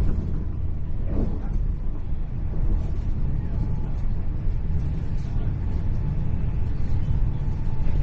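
Cabin noise inside a Hitachi Class 800 Intercity Express Train running at speed: a steady low rumble of the wheels on the track and the train running.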